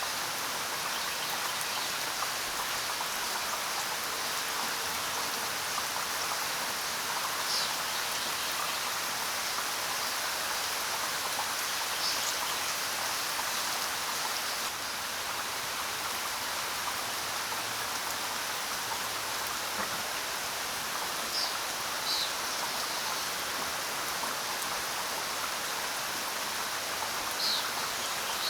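Steady rain falling, with a few short, high bird chirps every several seconds.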